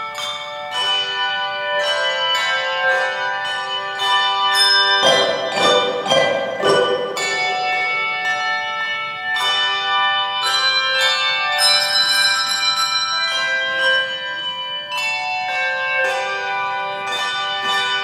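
Tuned bells playing a piece of music in ringing chords, each note struck and left to sound on. The playing grows louder and fuller a few seconds in, then eases back.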